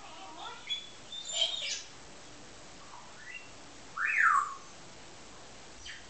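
Pet bird calling: a run of chirps and short whistles in the first two seconds, then one loud call that slides down in pitch about four seconds in.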